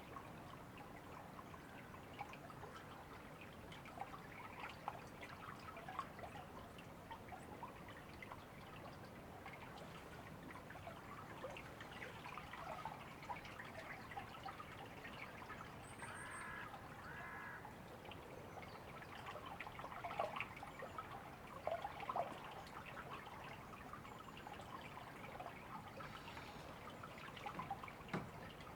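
River water trickling and babbling steadily, with a bird giving two short calls about halfway through.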